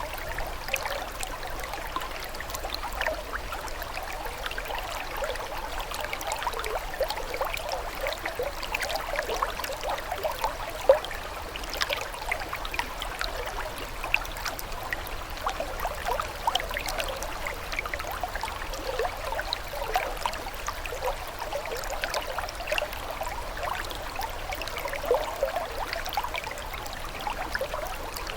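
Running water trickling and gurgling steadily, with many small splashes and bubbles.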